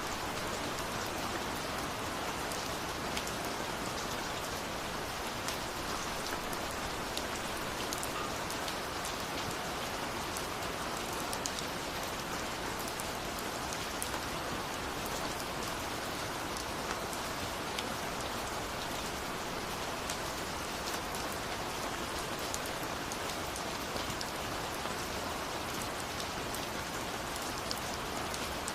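Steady rain falling on a surface, a continuous hiss with many fine drop ticks and no breaks.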